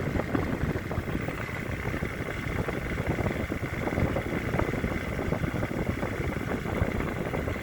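LG 8,000 BTU window air conditioner running, its fan and compressor making a steady low hum with a faint high tone over it.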